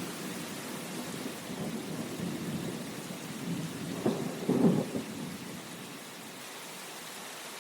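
Steady rain falling, with low rumbling swells under it that are strongest about four to five seconds in, then settle.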